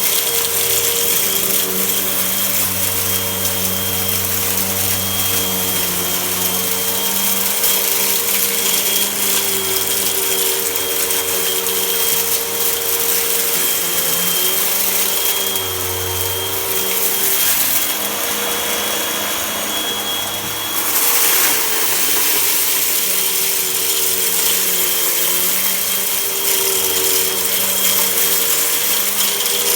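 Vacuum cleaner running continuously while sucking up dirt, its motor pitch wavering a little, with a brief louder rush about two thirds of the way through.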